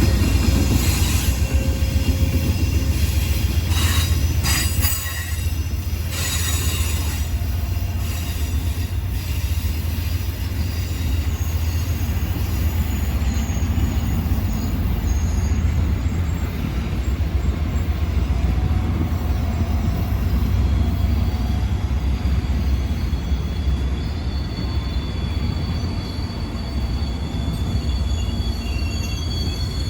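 A train rolling past with a steady heavy rumble and its wheels squealing in thin high tones that grow clearer in the second half. A few sharp clacks come between about four and nine seconds in.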